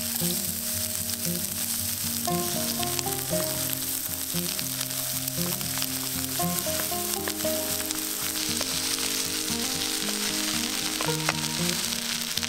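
Chopped onions, then sliced potatoes, frying in hot oil in a cast-iron pan, a steady dense sizzle. Background music plays underneath.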